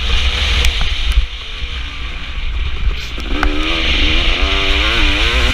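KTM 250 SX two-stroke motocross bike's engine, wind buffeting the microphone. The engine is subdued for the first few seconds, then from about three seconds in it revs up and down repeatedly.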